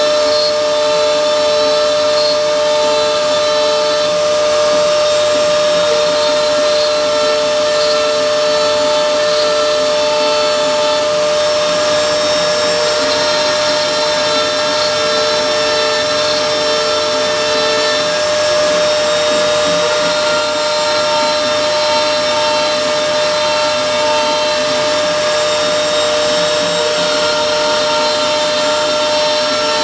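CNC router spindle running at steady speed with a constant whine while milling.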